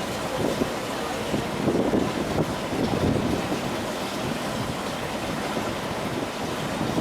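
Wind buffeting the microphone: a steady rushing noise with uneven gusts, rising again near the end.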